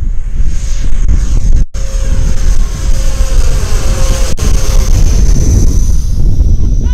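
RC model airliner's jet engines whining as the plane passes, the pitch sliding down as it goes by, under heavy wind rumble on the microphone. The sound cuts out for a moment twice.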